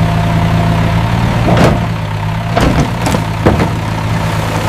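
Heavy machine's engine running steadily under load with a low, even hum. Four short sweeping noises come over it, one about one and a half seconds in and three more in the second half.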